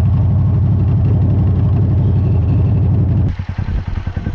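Motorcycle engine running steadily with a low, evenly pulsing rumble. About three seconds in it cuts off abruptly and gives way to a quieter, choppier low sound.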